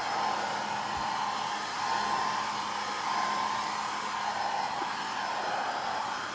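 Pet grooming dryer (WN-10 vacuum-comb/dryer) running steadily on its second, higher setting: an even rush of blown air with a steady whine from its motor.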